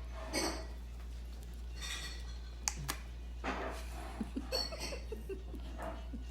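Scattered light clicks and taps, a few at a time at irregular intervals, over a steady low hum.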